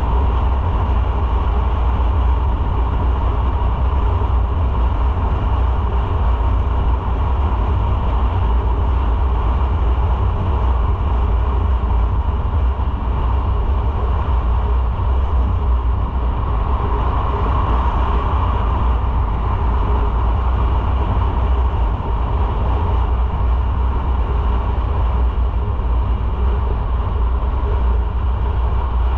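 Motorcycle on the move: a steady low rumble of wind and engine, with road noise above it.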